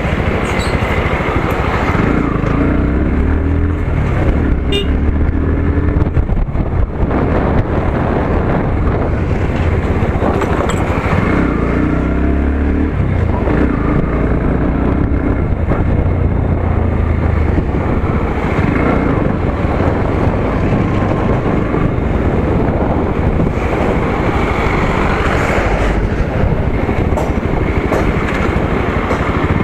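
Motorcycle engine running while riding, rising in pitch twice as it accelerates, over a steady rumble of road and wind noise.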